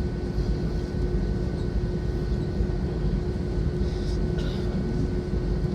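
Airbus A320 cabin noise on the ground before takeoff: a steady low rumble with a constant hum running under it.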